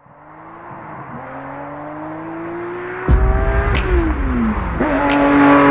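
Lamborghini Huracán LP610-4's V10 through a Fi Exhaust valvetronic muffler. The exhaust note fades in and climbs steadily. About three seconds in, a heavy low rumble sets in with sharp cracks, and the note falls away, then picks up again near the end.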